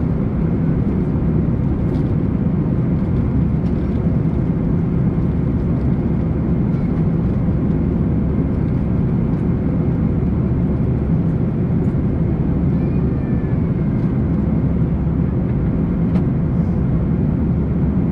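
Airbus A340-300 cabin noise in flight: a steady deep rumble of its four CFM56 engines and the airflow past the fuselage, with a few faint ticks.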